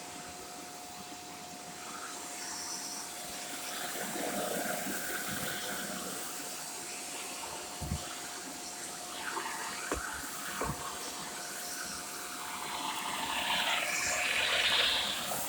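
Shark corded vacuum cleaner running: a rushing airflow noise with a steady whine, swelling louder near the end, and a few sharp knocks in the middle.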